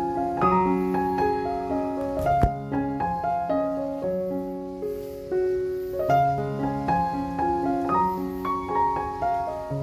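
Background piano music: a gentle melody over sustained chords, with one brief sharp click about two and a half seconds in.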